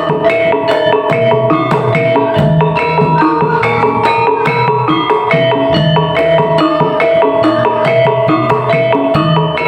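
Topeng Ireng dance music: percussion with a fast, even beat of about four strikes a second over ringing metallophone-like tones and a low drum that comes and goes.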